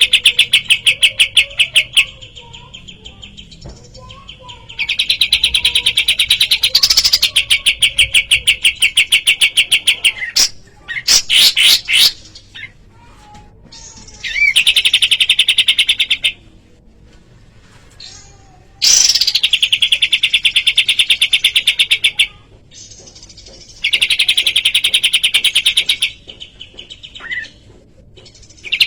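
Kapas tembak songbird singing: long, rapid, fast-pulsed trills lasting a few seconds each, repeated about five times with short pauses. A few short, sharp chirps fall in between, about a third and two thirds of the way in.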